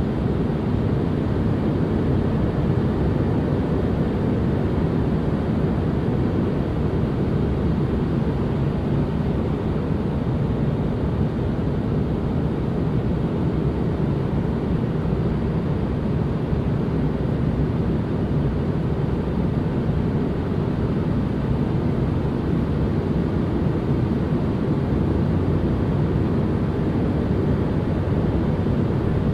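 Continuous relaxation white noise: a steady, unchanging hiss weighted toward the low end, with a deep rumble and little treble.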